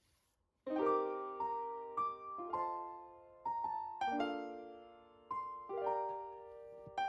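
Background piano music begins about half a second in, a gentle melody of struck notes and chords that ring and fade, changing every second or so.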